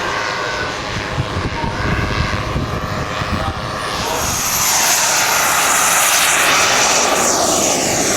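Engine of a radio-control model aircraft. It grows louder from about halfway through, then drops in pitch near the end as the model flies past.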